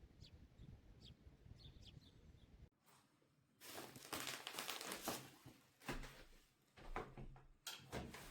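A few faint bird chirps over a low outdoor background. About three seconds in, this gives way to close rustling and crinkling handling noises that come in several bursts, the longest lasting over a second.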